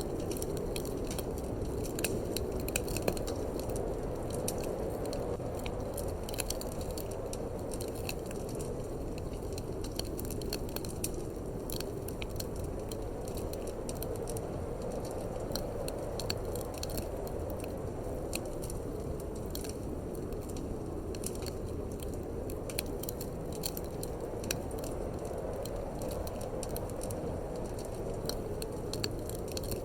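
Wood fire crackling in a fireplace: scattered sharp pops and snaps over a steady low rush of wind.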